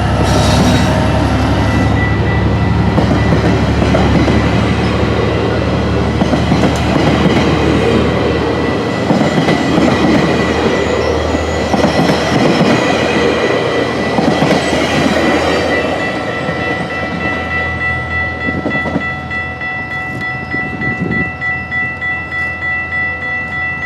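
GO Transit passenger train rolling past, with an EMD F59PH diesel locomotive's engine humming steadily through the first part. Later the rumble eases and the wheels beat out an even clickety-clack over the rail joints, with a steady high ringing tone from the wheels or rails.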